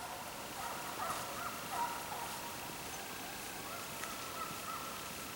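Deer hounds baying faintly in the distance, several short calls.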